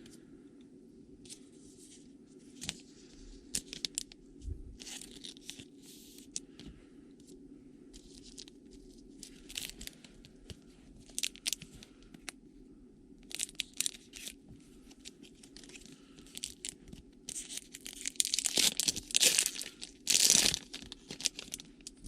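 Foil trading-card pack wrapper crinkling and tearing as a pack is opened and its cards handled, in short scattered crackles that grow loudest and densest near the end.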